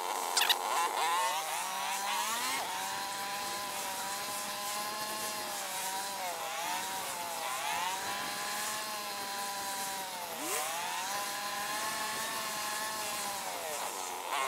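Kawasaki ER-6f's 650 cc parallel-twin engine running under way, its pitch rising and dipping repeatedly as the throttle is opened and eased off, over wind noise.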